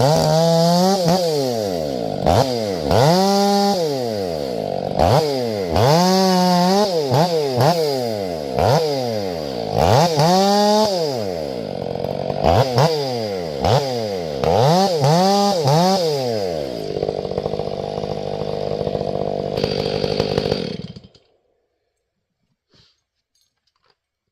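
Ported Stihl MS 500i fuel-injected two-stroke chainsaw bucking a grand fir, its engine pitch rising and falling over and over as it works through the cuts. It then runs steady for a few seconds and stops suddenly, leaving near silence.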